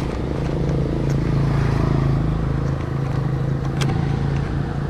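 A motor vehicle engine running steadily, with a couple of light clicks near the end.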